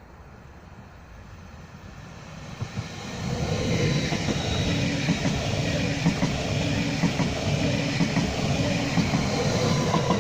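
A train passing close by, with its wheels clicking over the rail joints and a steady whine above the rumble. It swells up about three seconds in and begins to fade right at the end.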